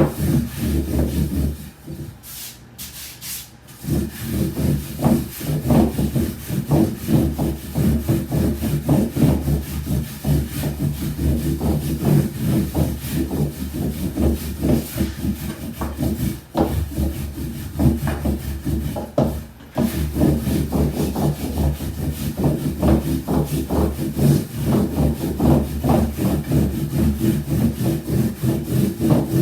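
Wooden rolling pin rolling out soba dough on a wooden board: a continuous rubbing rumble of quick back-and-forth strokes, easing off briefly a few seconds in.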